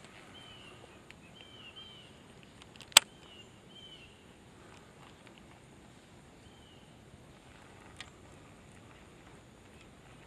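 A bird calling with a series of short, arched chirps, over quiet outdoor background. One sharp click about three seconds in stands out as the loudest sound, with a fainter click near eight seconds.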